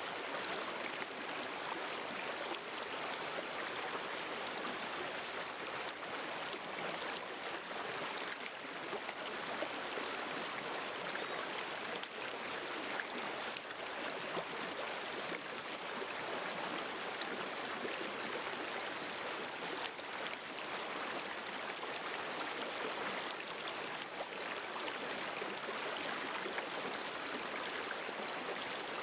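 River stream flowing over rocks, a steady rushing and babbling of water with small splashes.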